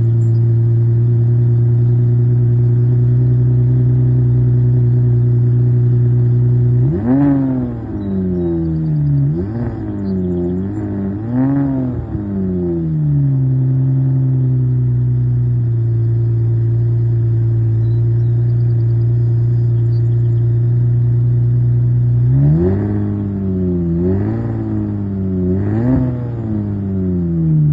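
Aston Martin DB7 Vantage's 5.9-litre V12 running at a steady fast idle just after a cold start. Twice it is blipped with a quick run of three or four throttle revs that rise and fall before it settles back to idle.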